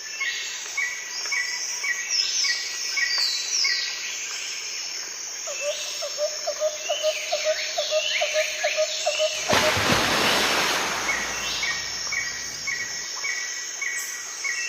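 Outdoor birdsong ambience: several birds calling at once, with short chirps repeated about twice a second and higher whistling notes. A rushing noise comes in about two-thirds of the way through and lasts a few seconds.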